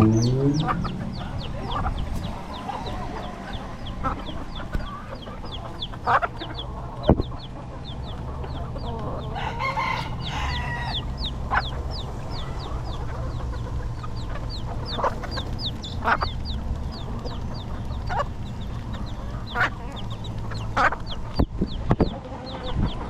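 A flock of feral chickens: chicks peeping several times a second throughout, hens clucking, with scattered sharp pecking taps. A rooster crows right at the start, and there is a louder call about ten seconds in.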